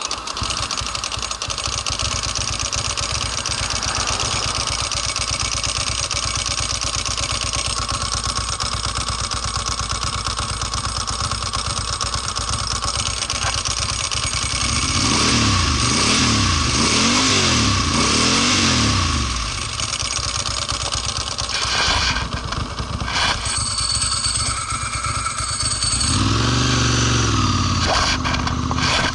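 Ducati Monster S4's 916 cc V-twin engine running under way, its revs rising and falling several times about halfway through and again near the end.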